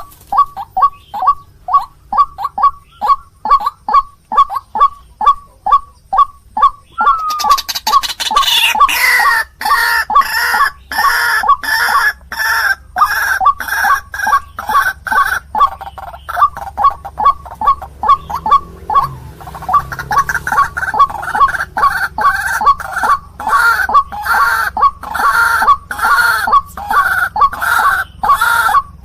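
White-breasted waterhen (ruak-ruak) calling in a fast, even series of clucking notes, about three a second. The calls grow louder and fuller about seven seconds in, with a brief falling note near nine seconds.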